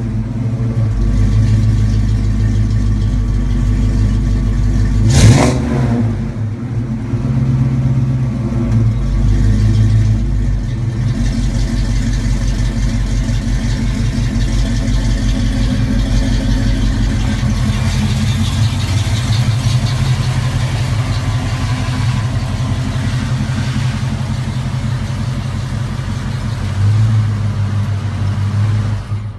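1989 Mustang 5.0 (302 V8) idling through a freshly installed exhaust of BBK shorty headers, a BBK off-road H-pipe and two-chamber Flowmaster mufflers on 2.5-inch pipe, giving a steady, deep burble. It swells briefly louder once, about five seconds in.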